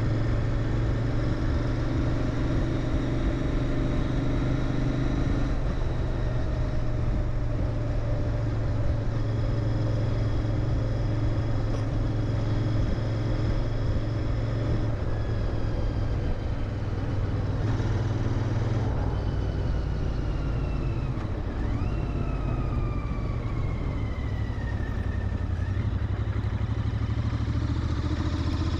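Royal Enfield Interceptor 650's parallel-twin engine running through its stock mufflers while riding. The engine note is steady, drops lower about two-thirds of the way through as the revs fall, and picks up again near the end.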